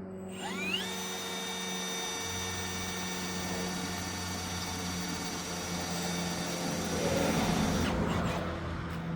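Electric drill spinning up just after the start and running with a steady whine while drilling a hole. Near the end the bit cuts louder and rougher, then the motor stops.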